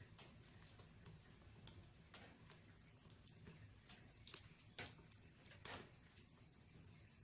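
Firewood burning in a fireplace, crackling faintly with scattered sharp pops at uneven intervals. The loudest pop comes about four and a half seconds in.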